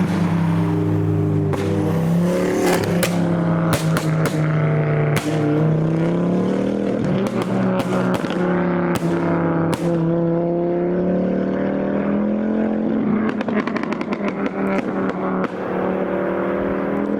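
Modified Ford engines running at low revs as a line of cars rolls past, a steady droning engine note that rises and falls gently, with the sound of a five-cylinder turbo. Sharp exhaust pops and cracks come again and again throughout.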